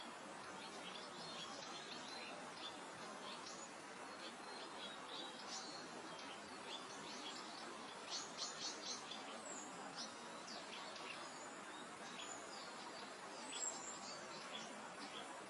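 Small birds chirping over a steady breeze hiss: short high chirps scattered throughout, with a quick run of four about eight seconds in.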